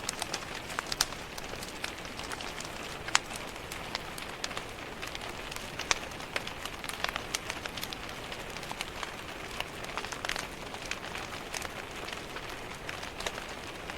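Steady rain hiss mixed with a wood fire crackling: irregular sharp pops and snaps, several a second, a few of them loud.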